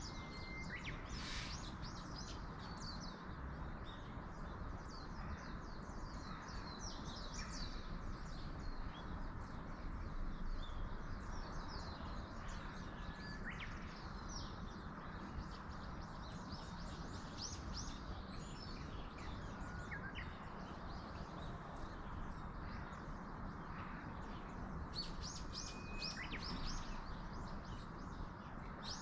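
Small birds chirping and twittering in a forest, many short high calls over a steady rushing background of wind in the trees, with a few brief thin whistled notes now and then.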